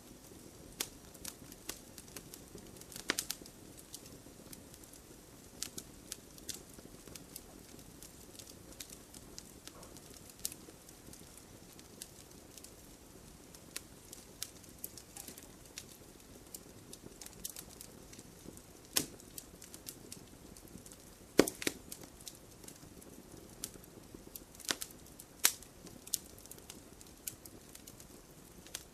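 Wood campfire burning: a low steady hiss with scattered crackles and sharp pops, the loudest pop about two-thirds of the way in.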